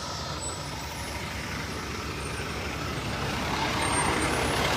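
Motor vehicle running, its engine and road noise growing steadily louder over the second half.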